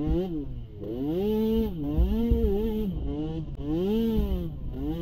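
Small youth ATV engine revving up and backing off over and over, about once a second, with low thumping underneath.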